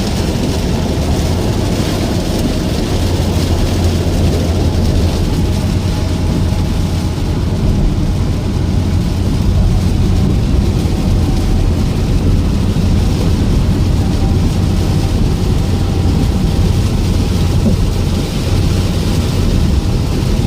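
Strong wind with rain, a steady rushing noise with a heavy low rumble.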